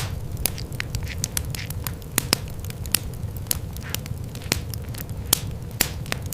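Wood fire crackling, with sharp irregular pops over a low rumble.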